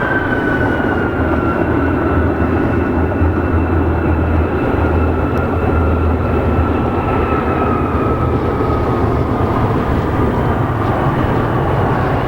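Embraer E175 jet's CF34 turbofan engines running as the airliner passes, a steady roar with a thin whine that falls slowly in pitch as it moves away.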